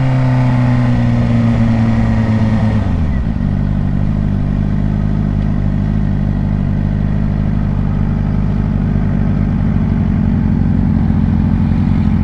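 Suzuki GSX-R 600 inline-four engine heard from the rider's seat, its note easing down, then dropping sharply about three seconds in and holding a steady, lower note for the rest.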